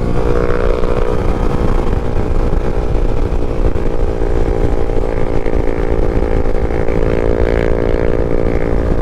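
Yamaha MT-07's parallel-twin engine running under way, with heavy wind rumble on the microphone. The engine note wavers just after the start, then holds a steady pitch.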